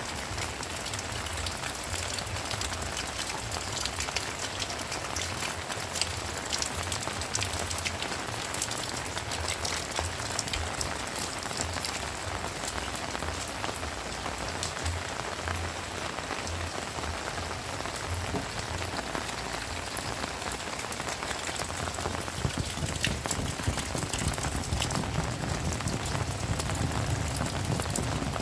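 Heavy rain falling steadily, with many close, sharp drop strikes over a constant hiss.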